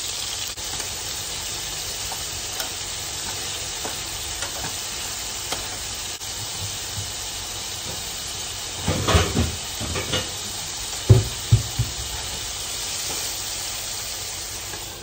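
Chicken meatballs sizzling steadily as they fry in avocado oil in a skillet. A few louder knocks and clatters come about nine and again about eleven seconds in.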